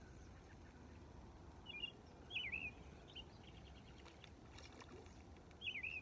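A bird calling with short swooping chirps: a few quick notes about two seconds in and another around the end, over a faint steady outdoor hiss.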